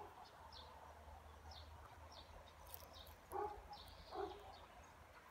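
Faint outdoor birdsong: short high chirps repeating every half second or so. Two brief lower calls come about three and a half and four seconds in.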